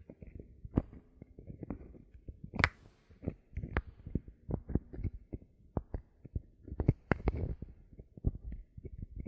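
Bottle caps being handled and tapped: a run of irregular soft clicks and knocks, with two louder sharp clicks, one in the third second and one a little after the seventh.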